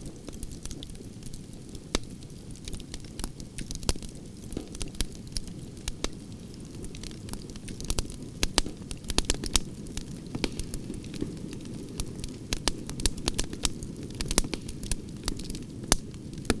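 Fire crackling in a fireplace: sharp pops and snaps over a steady low rumble, the pops coming thickest in the second half.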